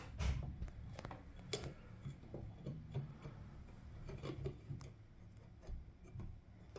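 Light handling noises from working with the tarantula enclosures and substrate: scattered small clicks, taps and rustles at irregular intervals over a low background hum.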